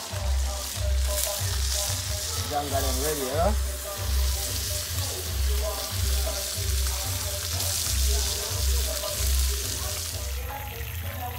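Fish and crayfish frying in hot oil in a Dutch pot, a steady sizzle, under background music with a steady bass beat.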